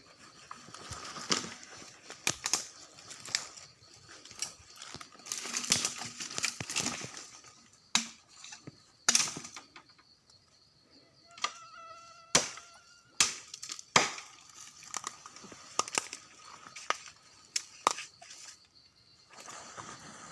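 Forest sounds: insects buzzing with many irregular crackles and rustles, as of dry litter underfoot during a walk, and a short pitched call about twelve seconds in.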